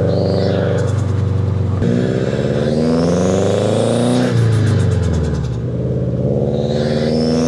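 Subaru WRX turbocharged flat-four engine and exhaust under hard acceleration through the gears: the pitch climbs, drops at an upshift about two seconds in, climbs again, falls briefly past the middle, then rises once more near the end.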